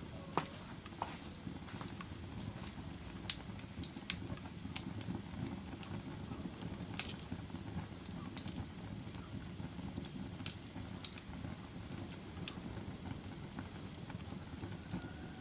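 Fire crackling: a steady low rush of burning with sharp pops and crackles scattered irregularly, the loudest a little over three seconds in.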